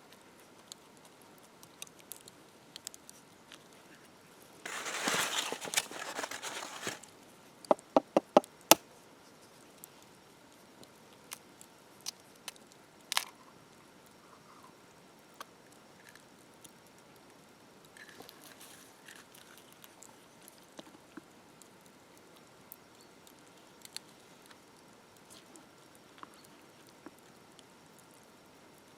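Quiet handling sounds of outdoor food preparation: faint scattered clicks and crackles, a short rustling scrape, then a quick run of about six sharp taps, with one more sharp tap a few seconds later.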